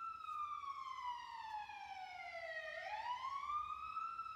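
Emergency-vehicle siren wailing in a slow cycle: a long falling tone, then a rise near the end before it starts to fall again.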